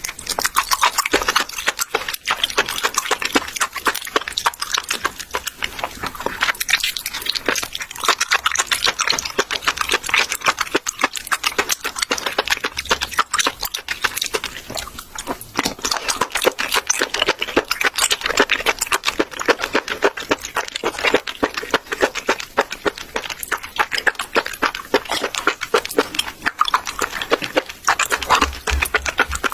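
Close-miked wet eating sounds: a dense, steady run of smacking, slurping and squelching clicks as raw octopus is chewed and sucked in.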